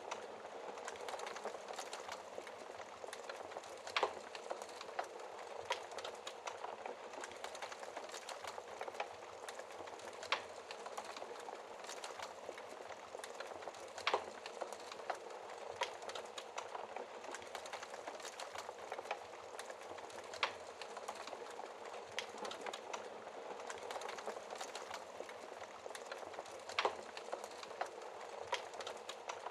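Wood fire crackling with constant small pops and a handful of sharp, louder snaps, over a steady hiss of rain.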